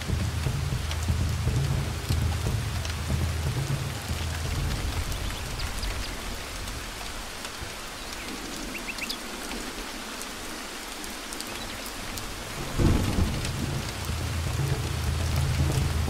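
Heavy rain falling steadily, with low thunder rumbling that dies away, then a sudden loud thunderclap near the end followed by renewed rumbling.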